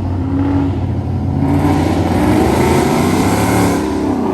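A car accelerating hard with its engine revving, its exhaust getting much louder from about a second and a half in, then easing off shortly before the end.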